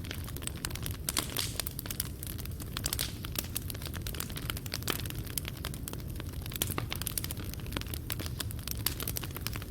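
Fireplace fire burning, with dense, irregular crackling and popping from the burning coals over a steady low rumble.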